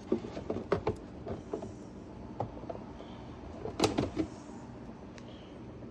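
Bottles and jars knocking and clicking as they are handled in a refrigerator: a quick run of knocks in the first second or so, a few more, and one louder knock about four seconds in, over a steady low hum.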